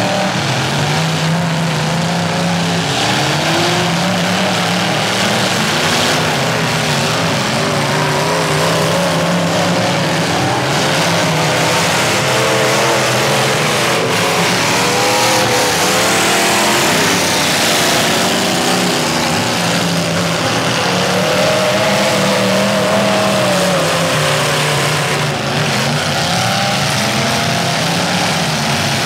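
Several demolition derby cars' engines revving and running together, their pitches rising and falling unevenly, over a steady din of noise.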